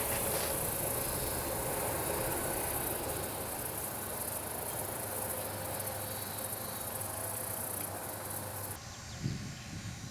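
Outdoor ambience with a steady high-pitched insect buzz, which cuts off abruptly near the end, followed by a soft thump.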